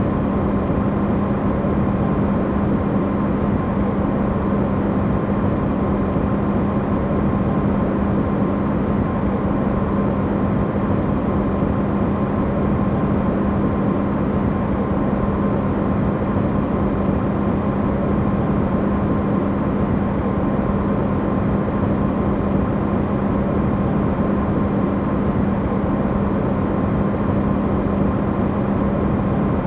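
Electrolux refrigerator running, recorded amplified: a steady low hum with a fainter higher tone over an even rushing noise, with no change.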